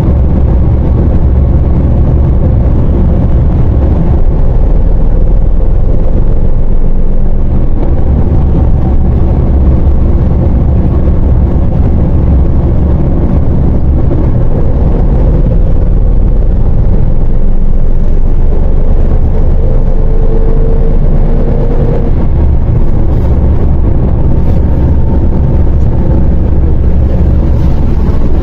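MAZ 104.021 city bus driving, heard from inside: a loud, steady low engine and road rumble, with a faint whine rising in pitch about two-thirds of the way through.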